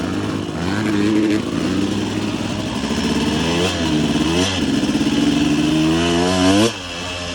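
Dirt bike engine under throttle, its pitch climbing and dropping several times through the gears, then one long climb cut off suddenly near the end as the throttle is closed, leaving a lower steady engine note.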